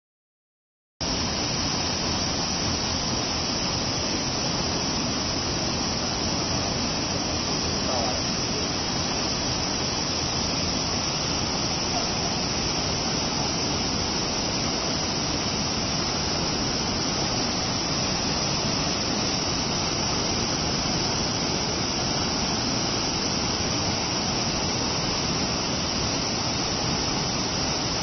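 Minoh Falls waterfall: a steady rush of falling water that starts suddenly about a second in and holds an even level throughout.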